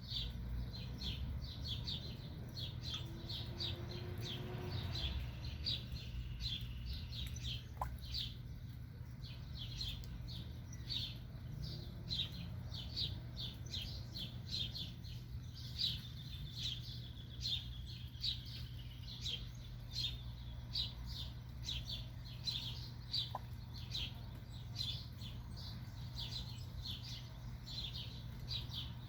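Black duckling peeping, a steady run of short, high, falling chirps about two or three a second, over a steady low hum.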